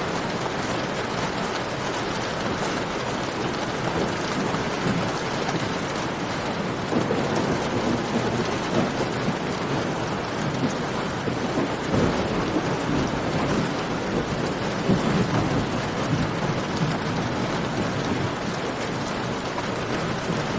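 Steady rain falling, layered with a crackling campfire, with sharper pops now and then. A low rumble swells through the middle.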